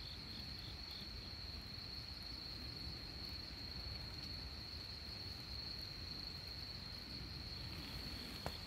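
Crickets singing at night: a steady high trill throughout, joined by a second cricket chirping about three times a second that stops a little over a second in. A single sharp click near the end.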